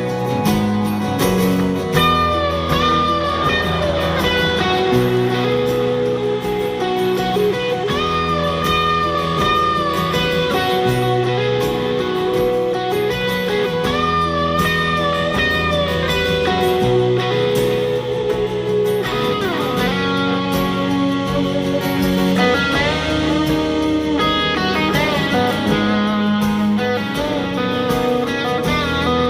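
Live rock band playing an instrumental guitar solo: a lead electric guitar plays a bending melody over strummed guitar chords and the rest of the band.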